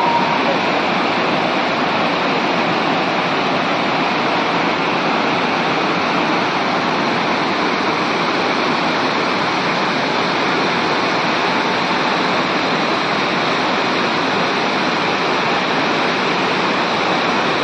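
Tirathgarh waterfall rushing: a loud, steady roar of falling water with no change in level.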